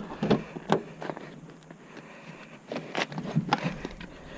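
A handful of short, irregular light knocks and clicks, some close together, over faint background hiss.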